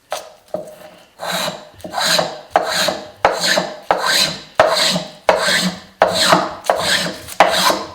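Antique metal spokeshave-like hand plane with a curved cutter, shaving a shallow curve in wood. It makes a quick, even series of about a dozen cutting strokes, roughly one every two-thirds of a second.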